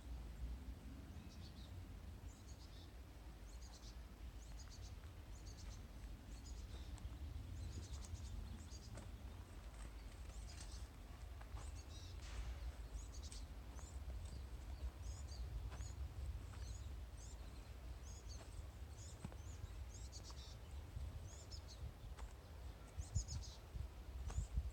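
Small birds chirping repeatedly in short, high, quick calls, over a faint steady low rumble. A few knocks come near the end.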